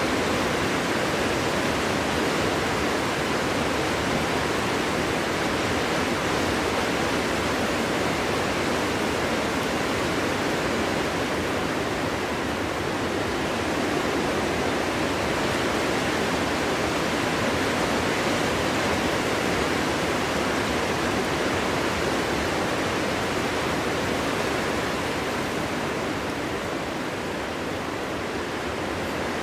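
Wind blowing through a frozen winter forest: a steady, even rushing noise without howling tones, easing slightly near the end.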